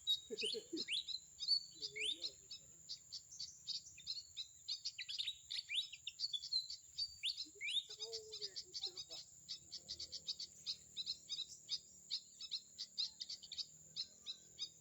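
Sunbirds twittering: a dense run of rapid high chirps and quick falling notes, over a steady thin high whine.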